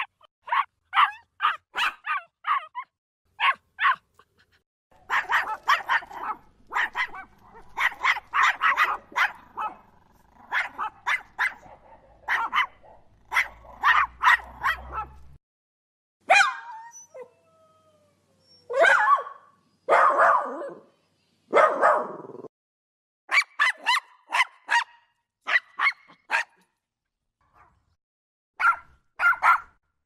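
Puppies barking and yipping in short bursts, with a dense run of rapid barks in the first half and brief pauses between clusters. A short falling whimper comes about halfway through, followed by a few longer, fuller barks.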